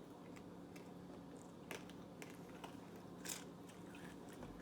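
Faint chewing of a Nerds Rope, the crunchy candy coating giving a few scattered soft clicks over a low steady hum.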